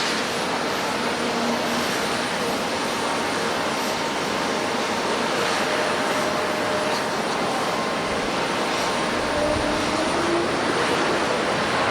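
Jet airliner engines heard from the ground as the aircraft moves on the runway or overhead: a steady broad engine noise with faint whining tones that drift slightly in pitch.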